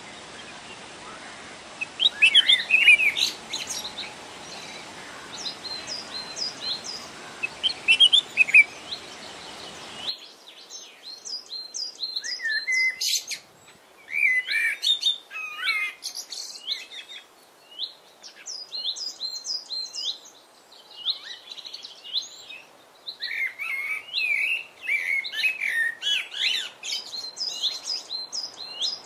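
Songbirds chirping and singing in many short, quick phrases, over a steady background hiss that stops abruptly about ten seconds in.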